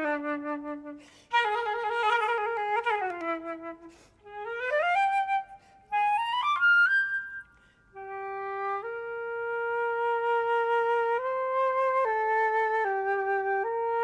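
A flute playing a single melodic line: held notes with vibrato broken by short pauses, quick rising runs a few seconds in, then longer sustained notes moving stepwise in the second half.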